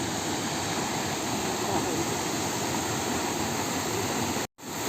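Waterfall rushing steadily. The sound cuts out completely for a split second near the end.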